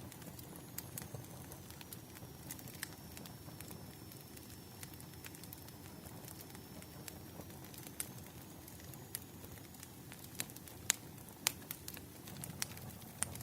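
Wood fire crackling: irregular sharp pops and snaps over a low, steady burning rumble, with a few louder pops near the end.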